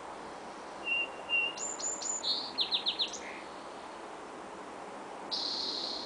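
Songbird singing one quick, varied phrase of high whistled notes about a second in, ending in a run of four fast down-slurred notes. A steady high note starts near the end.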